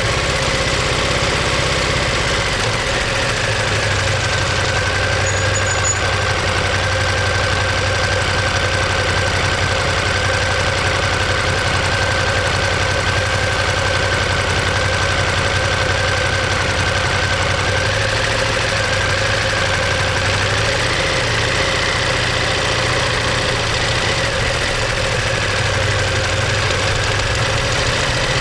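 Ducati Monster 1200S's 1198 cc L-twin engine and exhaust running steadily. The pitch dips slightly a few seconds in and rises back a little past the middle.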